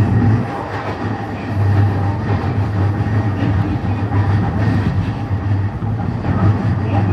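Running noise inside a moving electric commuter train: a steady low rumble of wheels on rails with a faint steady high tone above it, dipping slightly about half a second in.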